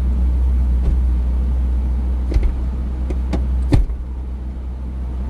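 Convertible supercar's engine idling steadily while parked, with a few sharp clicks and knocks and one louder thump about four seconds in.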